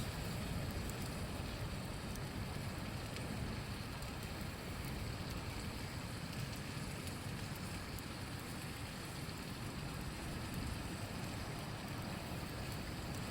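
Steady rushing of a river flowing, with faint scattered crackles from a campfire.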